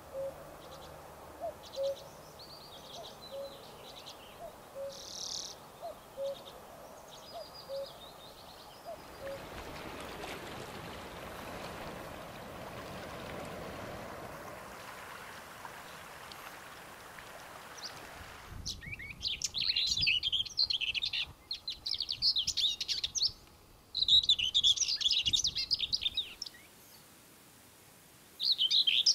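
Common whitethroat singing: short hurried warbling phrases of two to three seconds each, repeated with brief pauses, loud from about two-thirds of the way in. Before that, fainter distant bird calls and a steady rushing noise.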